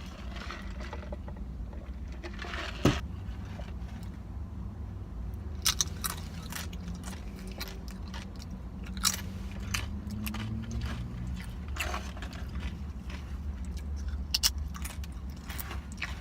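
Close-up chewing and biting, with sharp crunches of tortilla chips every few seconds, over a steady low rumble.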